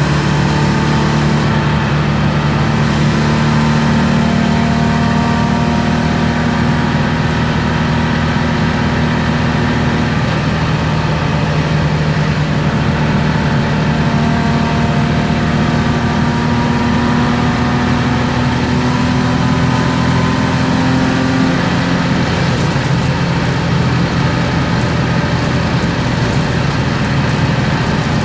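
BMW M50B25 inline-six with aftermarket headers and exhaust, heard from inside the E36 325i's cabin while pulling at speed. The engine note is steady and slowly rises in pitch, changing about ten seconds in and again about twenty-two seconds in. Road and wind noise run underneath.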